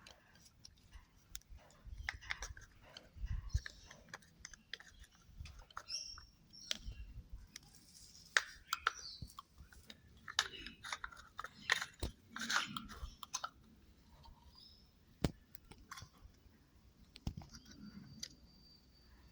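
Faint, irregular clicks, taps and scrapes of plastic parts being handled: a washing machine drain pump's O-ring being refitted and its two plastic housing halves fitted together.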